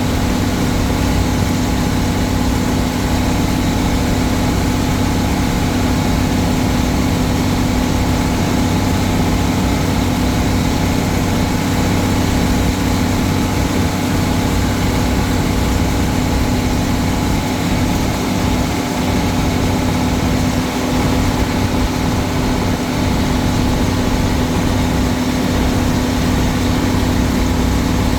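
Old Case tractor engine running at a steady speed, its even drone unchanging throughout.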